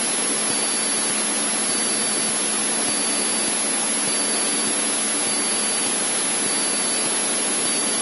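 Steady, even hiss of a Cessna 152's cabin noise, engine and airflow, heard through the cockpit intercom, with a faint low engine hum under it.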